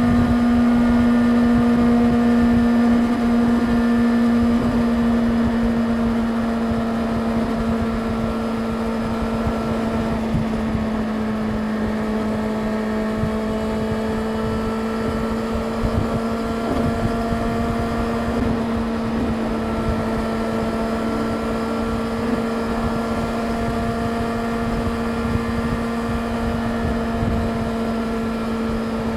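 Yamaha YZF-R6 inline-four engine running at a steady cruise, its note holding almost constant after easing off slightly in the first few seconds, with wind rumble on the microphone.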